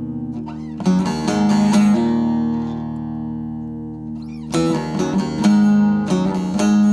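Background music played on acoustic guitar: plucked chords that ring out, with new strummed phrases starting about a second in and again about four and a half seconds in.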